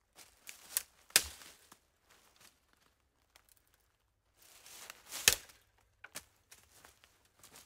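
A few separate sharp impact hits, the two loudest about a second in and about five seconds in, each with a short rustle or crackle around it.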